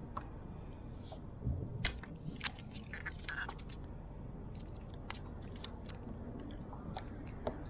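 Scattered small clicks and light knocks, with a few soft thumps about a second and a half in, over a steady low rumble.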